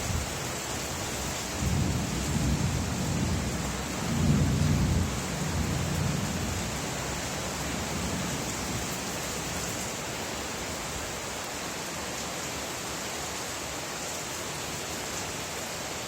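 Steady rain falling, with a low rumble of thunder that swells about two seconds in, is loudest around four to five seconds, and dies away a few seconds later.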